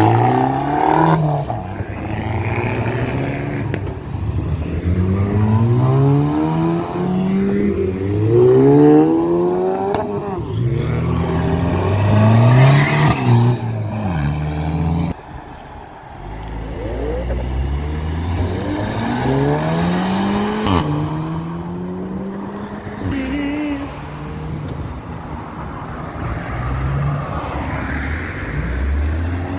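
Cars accelerating away one after another, each engine's pitch rising, falling back at a gear change and rising again.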